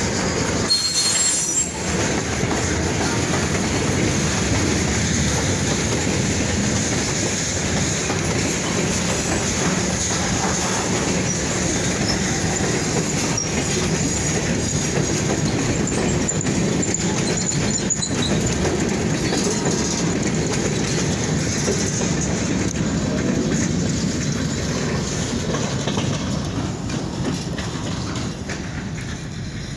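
Freight train rolling past close by: steady rumble and clatter of steel wheels over the rails, with faint high wheel squeal now and then, easing off near the end as the train goes by.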